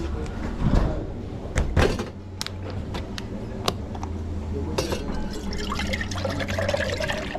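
Liquid running into a cup at a café coffee machine, over the machine's steady low hum, with sharp clinks of cups and tools in the first few seconds.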